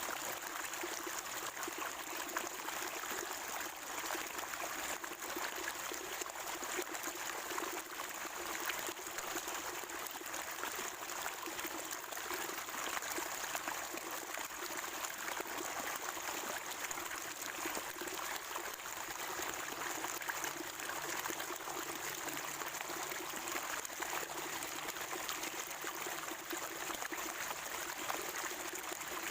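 Water from a natural spring gurgling and trickling steadily, with no breaks.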